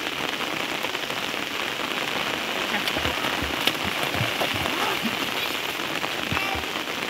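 Steady rainfall, an even hiss of rain with individual drops striking close by; a sharp single tap stands out about three and a half seconds in.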